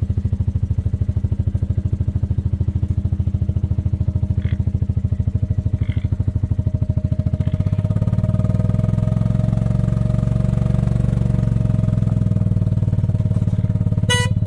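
Gator utility vehicle's engine running with an even pulsing beat; about halfway through it picks up and runs harder as the vehicle pulls away. A short horn beep sounds right at the end.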